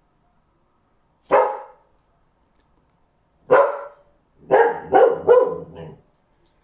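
A dog barking: a single bark, another a couple of seconds later, then a quick run of three barks, with silence in between.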